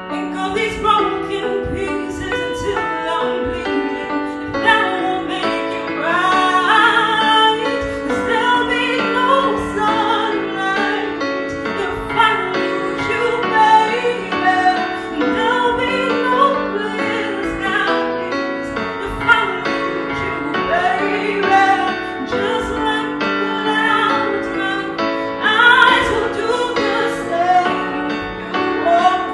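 Music: a female voice singing a slow pop ballad over piano.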